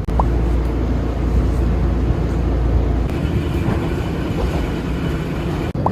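Steady rumble and running noise of a moving vehicle, heaviest in the low end for the first few seconds. The sound drops out for a moment near the end.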